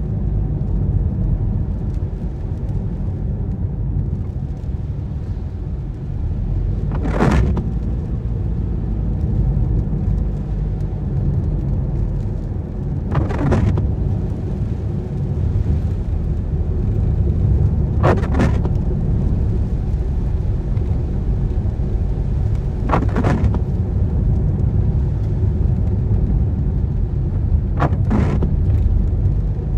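Car driving in rain, heard from inside the cabin: a steady low road and engine rumble, with the windscreen wipers swishing across the glass about every five seconds, five sweeps in all.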